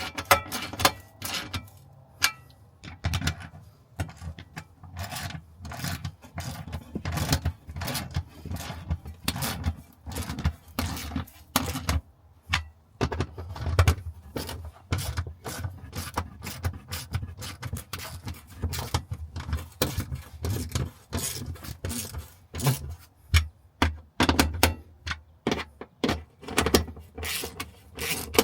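Irregular clicking, knocking and scraping of tools and parts being handled, with no steady rhythm.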